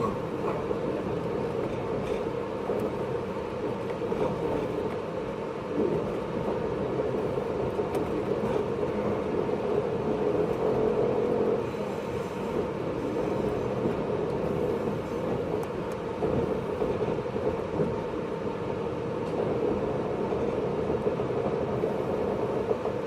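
JR 583 series electric train running, heard from inside the motor car MoHaNe 582: a steady rumble of wheels on rail and traction-motor noise, with a few light knocks.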